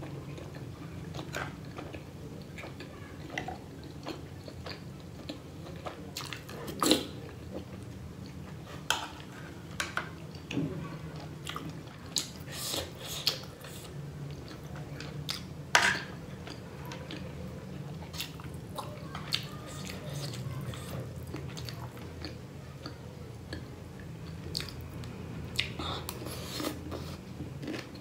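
Close-miked chewing of a mouthful of steamed pork momo (Nepali dumpling), with irregular short clicks and smacks of the mouth over a low steady hum.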